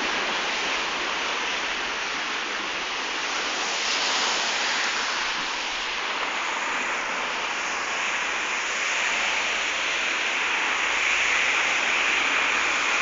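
Steady hiss of rain, with no thunder clap or other sudden sound.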